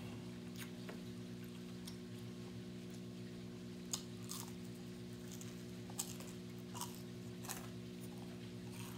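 A person chewing fried chicken close to the microphone, with about eight short, sharp mouth clicks and crunches spread across the chewing, over a steady low electrical hum.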